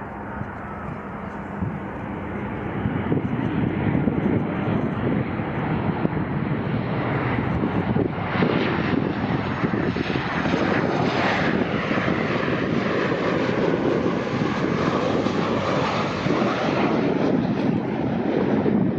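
Jet airliner's engines passing close: a loud noise that builds over the first few seconds and then holds, with a whine that falls in pitch about halfway through as the aircraft goes by.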